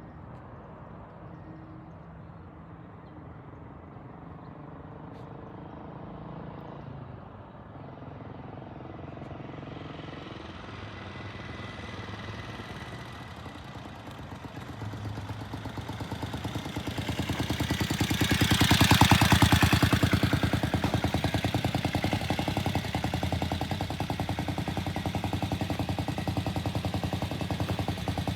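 Vintage British motorcycle engine, faint and distant at first, growing louder as the bike comes back, loudest about two-thirds of the way through, then running steadily close by with an even pulse.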